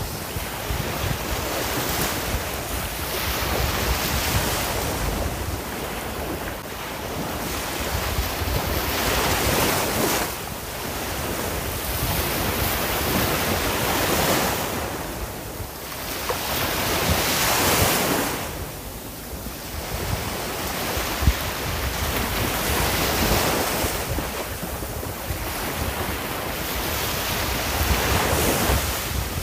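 Ocean waves breaking and washing on the shore. The surf noise swells and fades in slow surges every few seconds, with a low rumble of wind on the microphone beneath.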